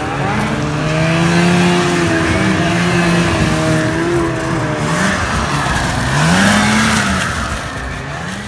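Snow bike engine revving: held at high revs for several seconds, then dropping off and blipped up again a few times.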